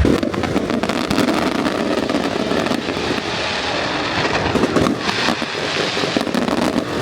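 Fireworks going off: dense crackling with scattered sharp bangs.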